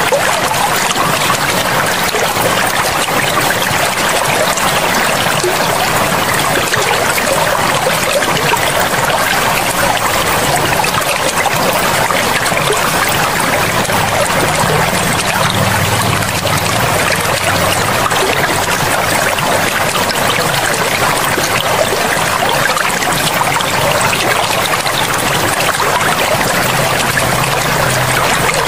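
Forest river or stream flowing over rocks, a steady even rush of water with no change in level.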